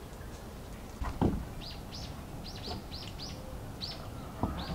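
A small bird chirping a quick series of short, high, repeated notes, a little over two a second. A dull thump sounds about a second in, and a few softer knocks near the end.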